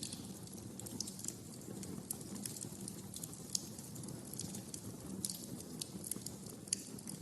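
Wood fire crackling in a fireplace: a steady low rumble of flames with irregular sharp pops and snaps, two louder cracks around the middle and near the end.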